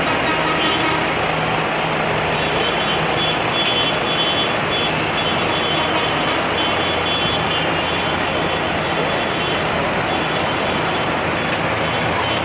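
Tractor engines running steadily as tractors pass.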